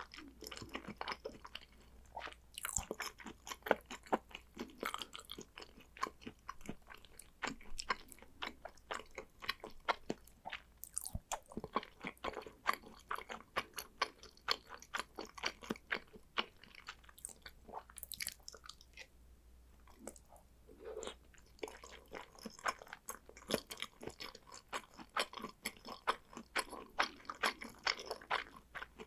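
Close-miked chewing of salmon sushi: a rapid run of wet mouth clicks and smacks, easing off briefly a little after the middle before picking up again.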